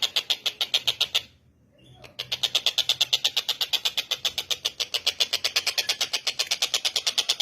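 Tengkek buto calling in a fast, continuous rattle of sharp high notes, about ten a second, breaking off for under a second just after the one-second mark and then picking up again.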